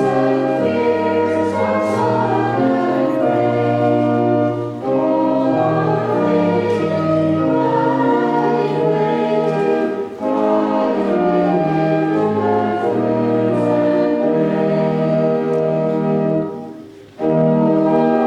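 A congregation singing a hymn with instrumental accompaniment, in sustained phrases with brief breaths between lines, the longest pause near the end.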